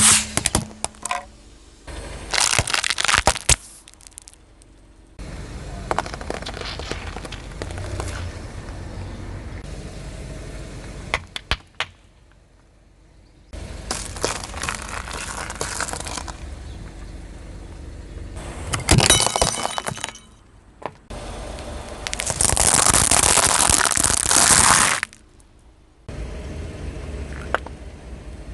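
A car tyre crushing brittle objects several times over: sharp cracking and crunching bursts, with a low steady car and tyre noise between them. The last crush, near the end, is a continuous crunch lasting about three seconds.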